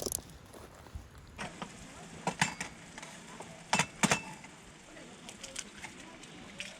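A few sharp clicks and knocks, the loudest about two and a half and four seconds in, over a faint steady hiss.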